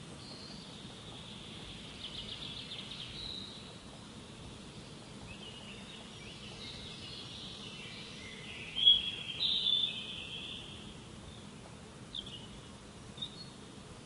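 Several songbirds singing: scattered high chirps and warbled phrases over a steady faint background hiss, with the loudest burst of calls about nine seconds in.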